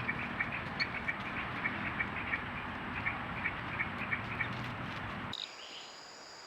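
A run of short, repeated animal calls, about three or four a second, over a low steady hum. The calls and hum cut off suddenly about five seconds in.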